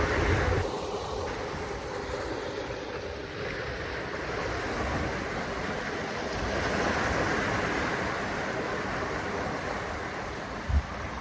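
Steady rushing of wind and water outdoors, with wind buffeting the microphone, and a couple of low thumps near the end.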